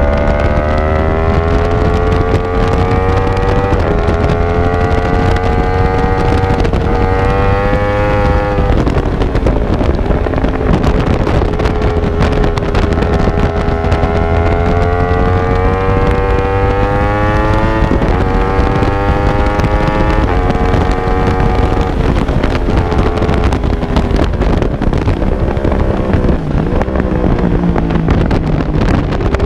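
Racing motorcycle engine heard from an onboard camera on the bike, hard on the throttle, its pitch climbing and then stepping down with each gear change and easing off for the bends. Heavy wind buffeting on the microphone runs underneath.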